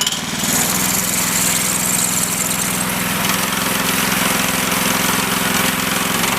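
The small gasoline engine of a Woodland Mills portable band sawmill running steadily, with the blade turning on the test run after the blade was re-seated and the belt tensioned.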